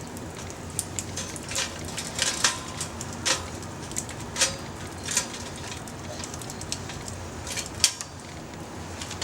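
Small wood fire of branches and scrap lumber crackling, with irregular sharp pops over a low steady hiss.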